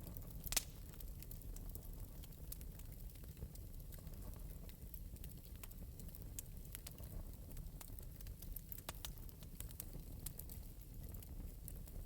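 Wood fire burning in an open metal fireplace, crackling lightly with scattered small pops over a low steady rumble; one louder pop about half a second in.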